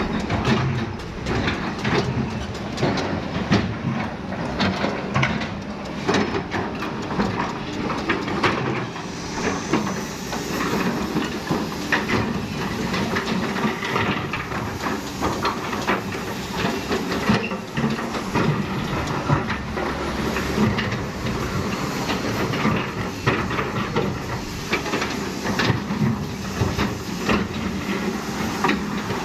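Kobelco hydraulic excavator running, with a steady engine hum, a hiss and frequent metallic clanks throughout.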